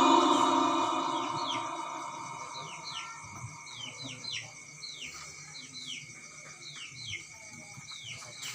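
The tail of a sung recitation fades away, then a small bird gives short chirps that slide downward, repeated irregularly about every half second to a second, over a faint steady high tone.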